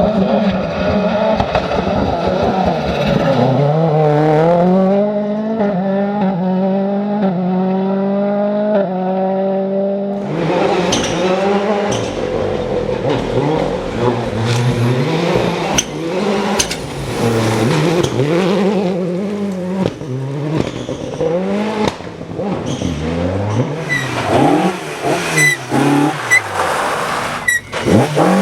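Rally car engines at full throttle. The first holds a steady high note for about ten seconds. Then a closer car's engine revs up and down repeatedly through gear changes, with sharp pops near the end.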